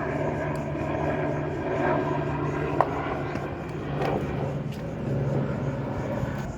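Aircraft engine noise: a steady, loud drone with several held tones. A short sharp click comes just under three seconds in.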